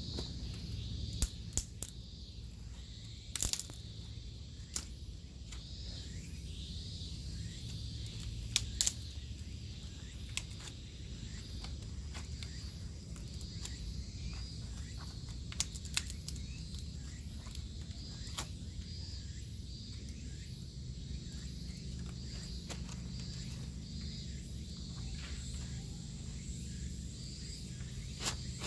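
Scattered sharp clicks and crackles, a few at a time, over steady outdoor background noise with faint insect chirring.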